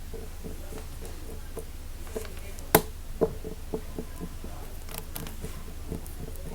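Quick, irregular taps and clicks on an object handled close to the microphone, with one sharp, loud click a little before the middle. A steady low hum runs underneath.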